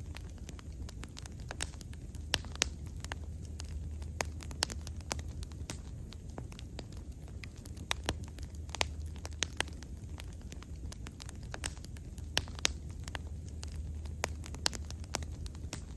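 Wood bonfire burning, with frequent sharp, irregular crackles and pops over a low steady rumble of the flames.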